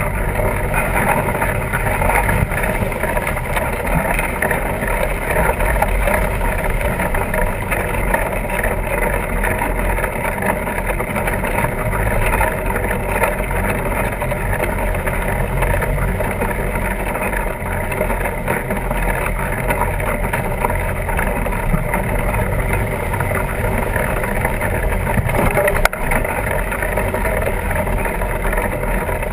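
Steady rushing and rumbling of wind buffeting the microphone, mixed with the rolling noise of a fat-tire bike being ridden. One sharp click sounds near the end.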